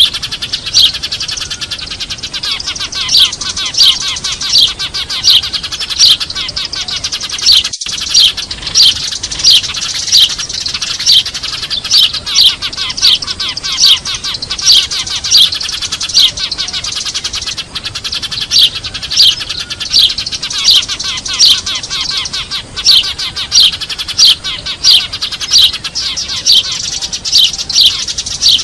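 A flock of Eurasian tree sparrows chirping and chattering noisily, many birds at once: sharp, loud chirps a little more than once a second over continuous twittering. It is a sparrow lure recording, with a split-second gap about eight seconds in.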